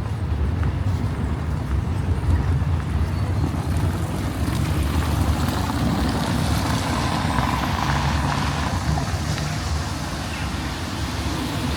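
Steady low rumble of motor traffic on a city street, with a vehicle passing close by.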